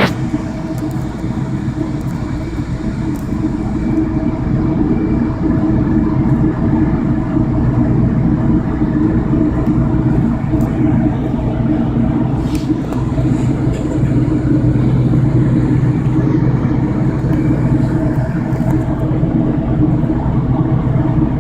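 Passenger train running: a steady rumble and hum from a moving rail car.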